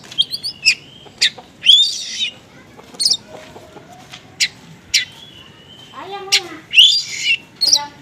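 Oriental magpie-robin (kacer) singing a fast, varied 'konslet' song of sharp chirps and slurred whistles broken by a couple of harsh rasping notes, with the calls of small birds worked into it.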